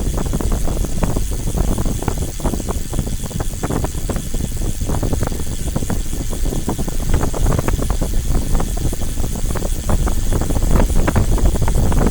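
Vehicle in motion: a steady low rumble with many short crackles and knocks throughout.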